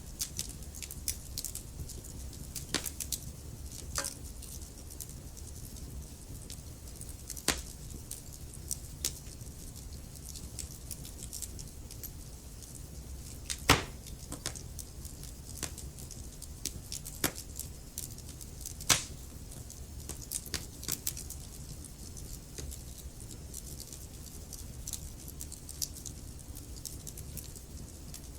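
Wood fire burning in a fireplace: a steady low rumble of flames with irregular crackles and sharp pops, the loudest pops about halfway through and again a few seconds later.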